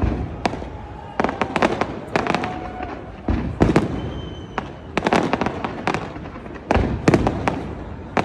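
Fireworks display: clusters of sharp bangs and crackles come about every second or so, each burst trailing off before the next.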